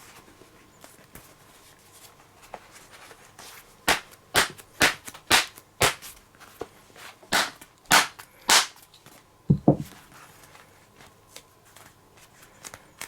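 Baseball glove leather being struck to work freshly applied grease in and spread it: about eight sharp smacks, roughly two a second with a short pause partway, then two duller thuds.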